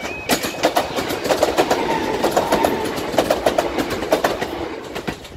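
Greater Anglia Class 321 electric multiple unit passing close by over the level crossing, its wheels clattering in quick rhythmic groups over the rail joints, dying away near the end.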